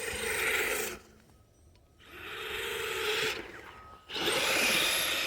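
Redcat Everest 10 RC mega truck driven through snow in three throttle bursts: its electric motor and drivetrain whir while the tyres churn the snow with a rasping sound. Each burst lasts a second or more, with short quiet gaps between them.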